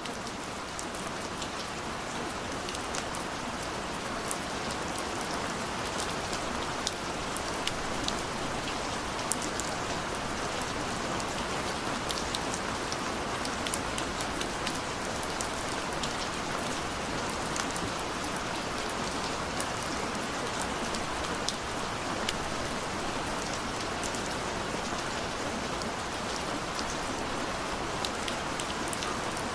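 Steady rainfall: an even hiss of rain with many sharp little drop hits scattered through it.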